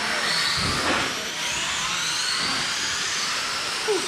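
Several electric RC race cars running around a dirt oval, their motor whines overlapping and gliding up and down in pitch as they speed up and ease off. A short sharp sound stands out near the end.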